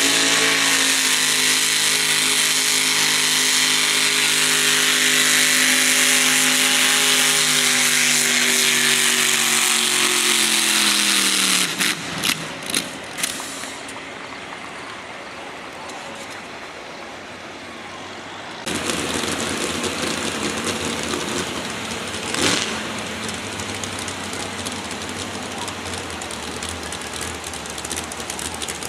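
Mini modified pulling tractor's engine running at full throttle under the load of the sled, its pitch slowly sagging as it bogs down. After about eleven seconds the engine note drops away with a few sharp pops. From about two-thirds of the way through there is a quieter, rough engine running.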